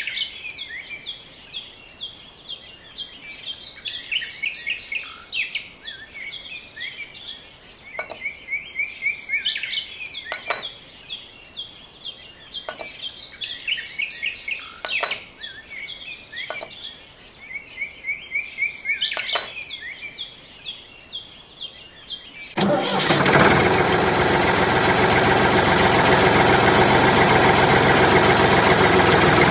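Birds chirping over and over, with a few sharp clicks; about twenty-two seconds in, a loud, steady engine sound like a tractor engine running cuts in suddenly and keeps going.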